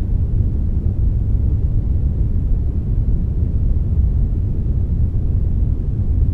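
Steady synthetic brownish noise, a blend of brown and white noise: an even, unbroken rush heaviest in the deep bass, with only a little hiss above.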